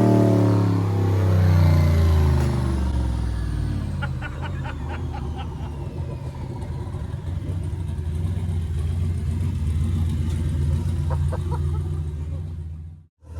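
Turbocharged LS V8 coming off high revs: the engine note falls away over the first two seconds and settles into a low, steady running while the turbo's whine winds slowly down. A short run of quick ticks comes about four seconds in.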